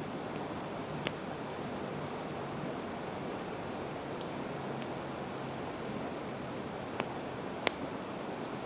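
Campfire of split evergreen wood crackling, with a few sharp pops (the loudest near the end), over a steady rushing of the river. A high, regular chirping, about two chirps a second, runs through most of it and stops a little over halfway.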